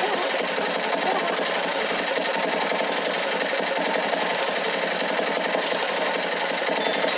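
A machine running steadily, a continuous, even mechanical rattle and hum.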